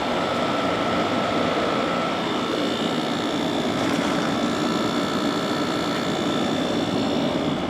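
2009 General Electric 12,000 BTU air conditioner running steadily, its fan blowing air and its compressor running, with a faint steady whine over the air noise. It runs normally and is cooling.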